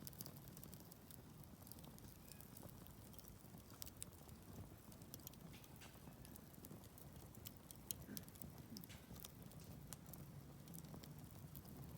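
Wood campfire crackling quietly, with scattered small snaps and pops of burning wood.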